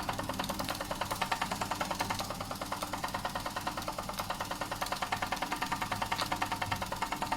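Doll & Co 339/2 stationary model steam engine running fast, with a rapid, even chuffing clatter of about eight beats a second.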